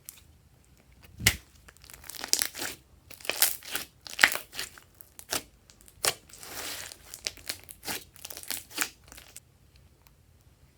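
Slime being worked and mixed: a run of irregular sticky crackles and pops, with a longer crinkling stretch about six seconds in, fading out near the end.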